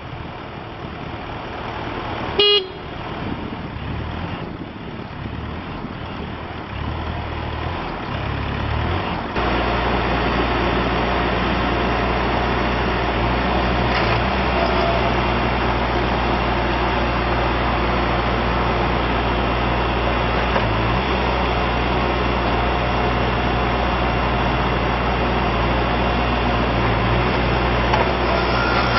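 Bobcat T595 compact track loader's diesel engine running at low revs, with a short blast of the machine's horn about two and a half seconds in. At about nine seconds the engine is throttled up and runs steadily at high revs.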